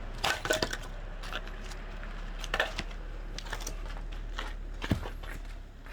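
Scattered light knocks and clicks at irregular intervals, of hard objects being handled, over a low steady hum.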